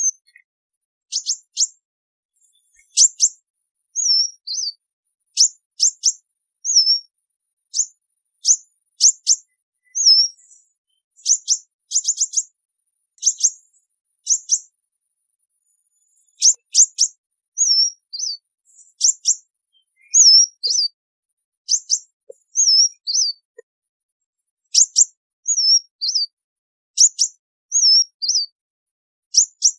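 Sunbird calls: sharp, high, quick chips, some doubled or tripled, alternating with short curling notes, repeated about once a second, with a pause of about two seconds a little past halfway. Flock-gathering calls.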